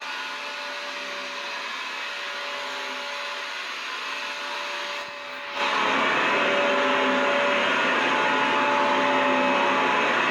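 Vacuum cleaner running steadily: a continuous rushing whoosh with a faint whine. About halfway through it dips for a moment, then comes back noticeably louder and fuller.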